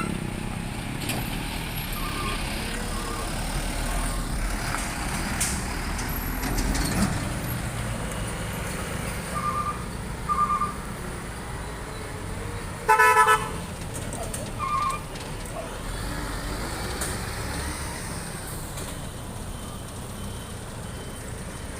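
Vehicle horns tooting over a steady rumble of truck engines and traffic: several short high beeps in little groups, and one louder, fuller horn blast about thirteen seconds in.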